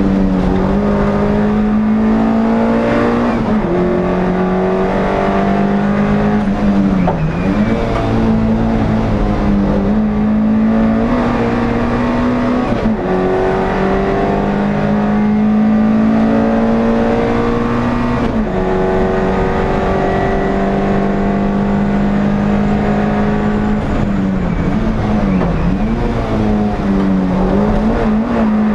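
NSU TT race car's air-cooled inline-four engine running hard at high revs, heard from inside the car. Its pitch creeps up through long pulls and drops sharply at gear changes about three times, and twice it dips and climbs back as the car slows for corners.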